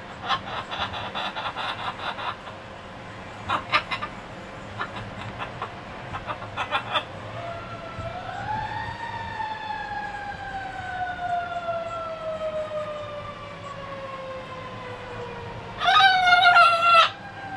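Pet parrot imitating sounds: rapid rattling trills in the first seven seconds, then a long siren-like whistle that rises and slowly falls for about seven seconds, an imitation of an ambulance siren. Near the end a loud wavering call lasts about a second.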